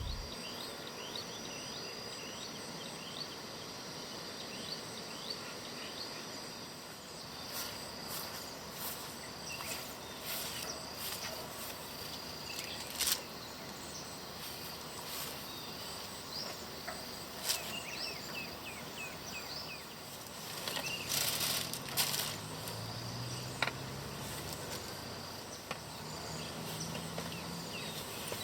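Rural ambience of insects chirping: a steady high, pulsing trill with many small chirps and a few scattered clicks. A low hum comes in about two-thirds of the way through.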